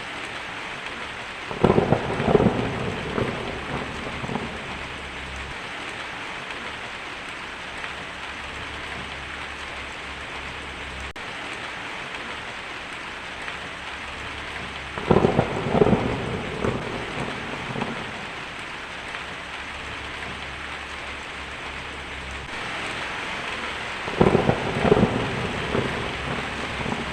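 Heavy rain drumming steadily on a tin roof, with three claps of thunder, each tailing off in a rumble over a couple of seconds: about a second and a half in, about halfway through, and near the end.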